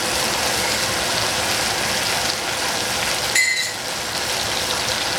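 Vegetables sizzling in hot cooking oil in a stainless steel saucepan, a steady hiss. About three and a half seconds in comes a short high ping.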